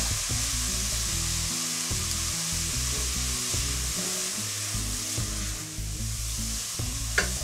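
Chopped onion, carrot and tomato sizzling steadily in oil and margarine in a pot on a gas burner, stirred with a spatula that scrapes and turns the vegetables. This is the sauté stage, with the spices just added.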